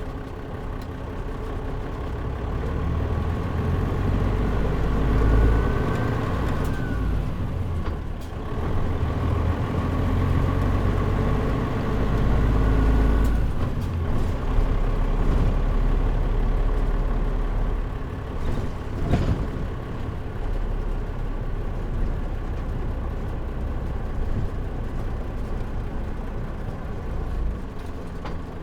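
Mitsubishi Fuso KL-MP37JM city bus heard from inside the cabin, its diesel engine and drivetrain pulling and running on. The engine swells twice and drops briefly in between, near 8 and 14 seconds.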